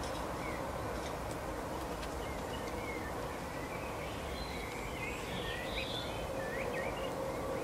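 Small songbirds chirping and twittering in short, scattered calls, busiest in the second half, over a steady background hiss.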